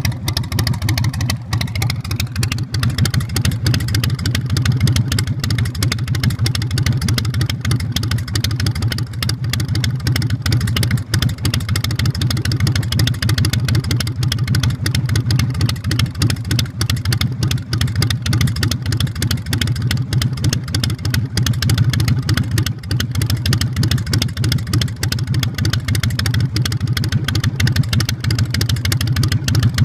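Carbureted 117 cubic inch S&S V-twin of a Big Dog Pitbull chopper running steadily through its custom exhaust, with a deep, even engine note.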